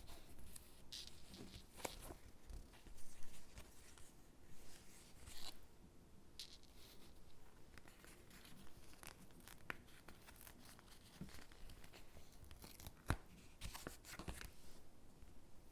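Paper stickers being peeled from their backing sheet and pressed onto paper gingerbread cutouts: soft, irregular peeling and rustling with light taps, and one sharper click late on.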